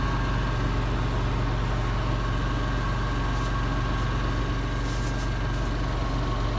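Steady low mechanical hum of an idling engine, unchanging throughout.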